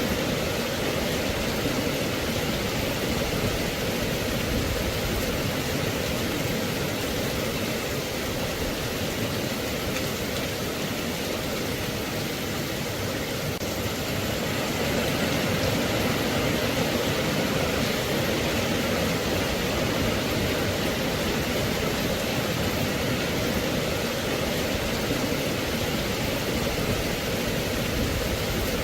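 Rain falling steadily, an even, unbroken hiss with no distinct drops or rhythm.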